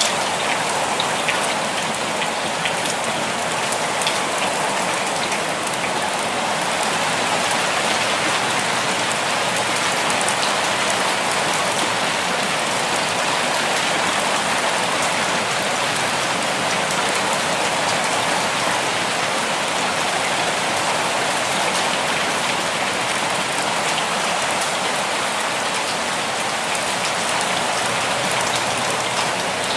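Steady rainfall: an even wash of many drops, with single drop taps standing out here and there.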